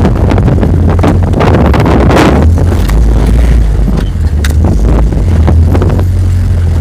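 A vehicle driving off-road, its low rumble buried under heavy wind buffeting on the microphone, with frequent sharp knocks and rattles from bumps.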